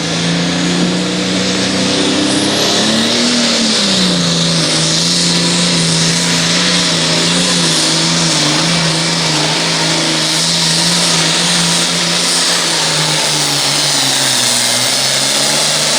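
International pulling tractor's diesel engine at full throttle, pulling the weight-transfer sled down the track. Its pitch holds steady, with a brief rise and drop about three to four seconds in and a slight sag near the end.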